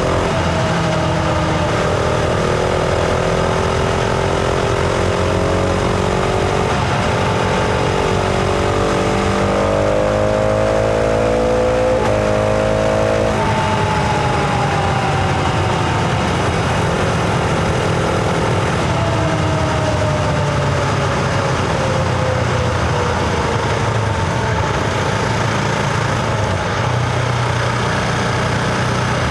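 Husqvarna Vitpilen 701's single-cylinder engine heard from onboard while riding. The revs climb for several seconds, drop suddenly near the middle, then fall away slowly in two long stretches, under a steady rush of wind and road noise.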